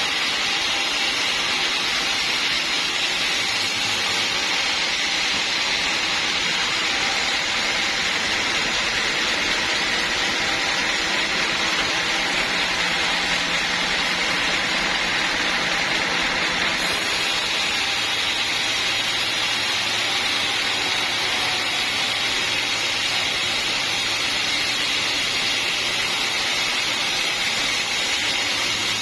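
Sawmill running steadily, its blade cutting through a mahogany log. The machine's low hum drops in pitch a little over halfway through.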